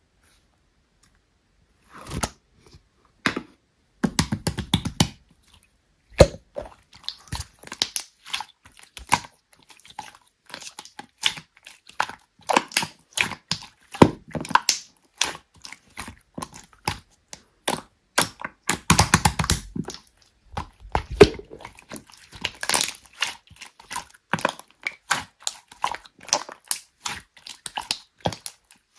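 Slime being squeezed, pressed and stretched by hand, giving a dense, irregular run of sticky clicks, pops and crackles that starts about two seconds in.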